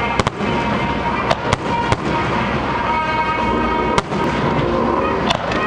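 Aerial firework shells bursting: several sharp bangs at irregular intervals, one of the loudest about four seconds in, over background music.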